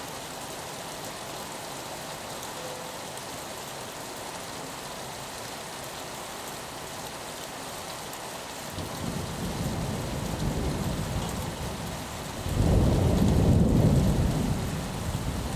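Steady rain on a window, with a hiss throughout. About nine seconds in, thunder begins to rumble low and builds, becoming loud and heavy for the last few seconds.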